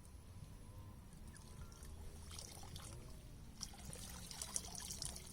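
Faint trickling and light splashing of water, with a few small splashes that come more often near the end.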